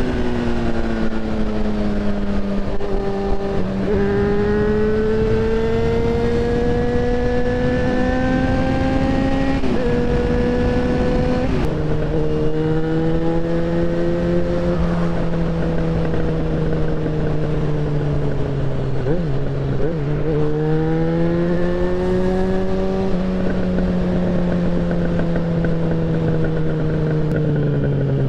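Yamaha XJ6N's 600cc inline-four engine running under load while riding. Its pitch rises under throttle, drops sharply at gear changes about ten and twelve seconds in, holds fairly steady, dips briefly around nineteen seconds, climbs again, then eases off near the end.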